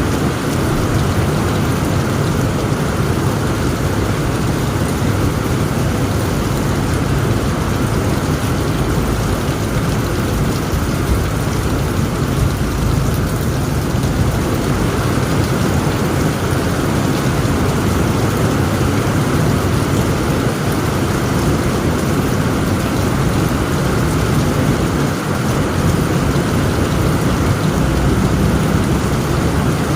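Heavy rain falling steadily on a tent roof, with a continuous low rumble of thunder under it.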